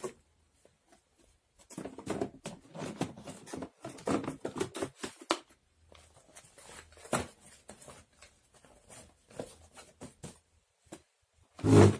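Objects being handled: soft rustles and light taps in clusters, with a louder, pitched sound near the end.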